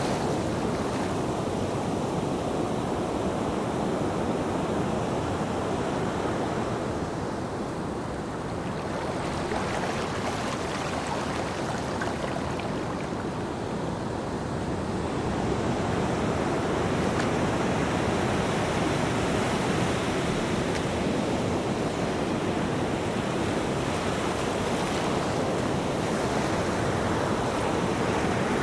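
Ocean surf breaking on a beach: a continuous rushing wash of waves that eases off a little partway through and swells again.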